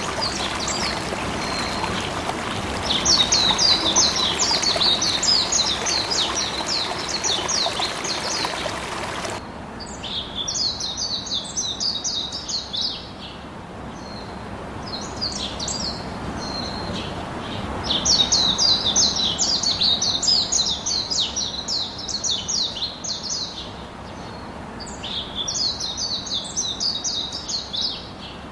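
A songbird singing in repeated bouts of fast, high trills, over the steady rush of flowing water that cuts off abruptly about nine seconds in.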